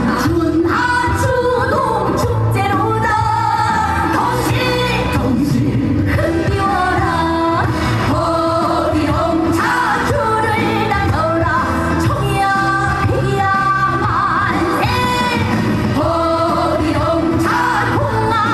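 A woman singing a Korean trot song live over an amplified band backing with a steady beat.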